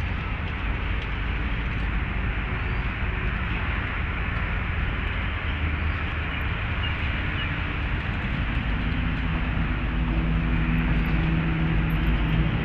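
Steady rumble of city traffic. About two-thirds of the way through, a vehicle engine's low hum joins it and grows louder.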